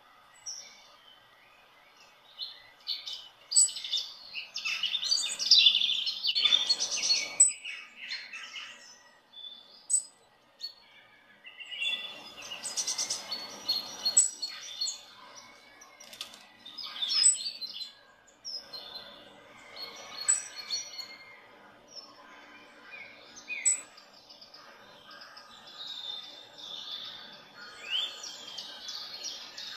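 Small birds chirping and singing in irregular bursts of short, high calls, with several sharp high notes repeated every few seconds.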